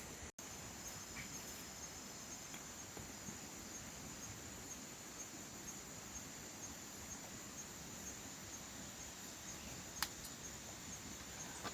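Insects, crickets, trilling in a steady high-pitched chorus with a faint regular pulse. There is a single sharp click about ten seconds in.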